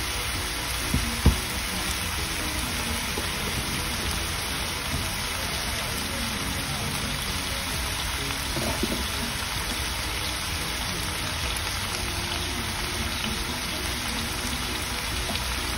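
Chicken fried rice sizzling steadily in a hot wok, with two sharp knocks about a second in.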